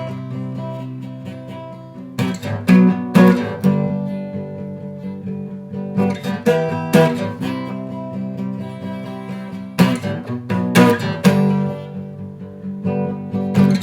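Acoustic guitar strumming chords: a few quick strums every few seconds, each chord left to ring in between.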